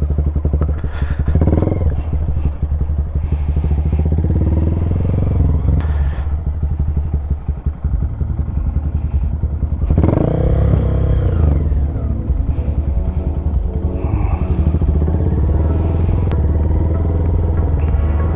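Honda Grom's single-cylinder engine with an aftermarket loop exhaust, running at low speed while being ridden. The revs swell and drop back a few times under small throttle openings.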